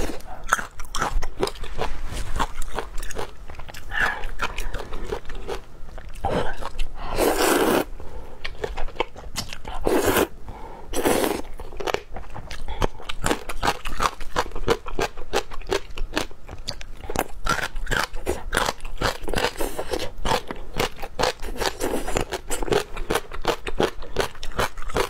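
Close-up crunching and chewing of crisp vegetable toppings in a bowl of luosifen rice noodles, such as gongcai stems and small pickled peppers: many quick crisp crunches. Three louder slurps come between about seven and eleven seconds in.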